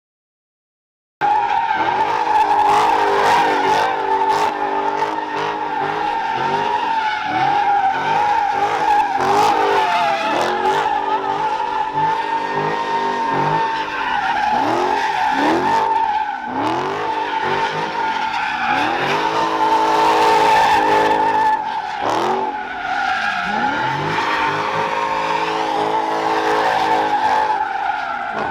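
Car tires squealing without a break as cars spin their wheels, with engines revving up and down under the squeal. It starts abruptly about a second in.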